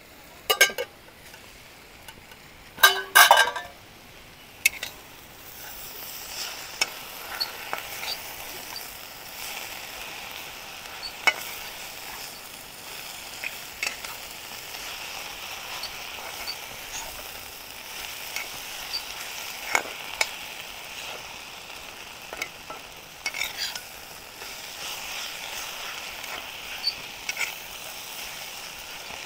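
Cooked leafy bharangi bhaji with moong dal sizzling in a pan while a spatula stirs and scrapes it, with scattered clinks of metal on the pan. A few loud clatters come in the first few seconds, and the steady sizzle sets in about five seconds in.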